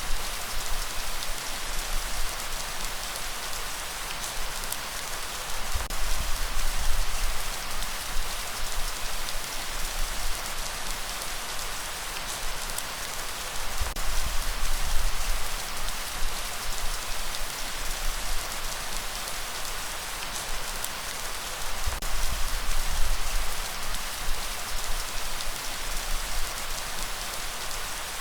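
Heavy rain falling steadily, a dense even hiss, with a low surge swelling up about every eight seconds.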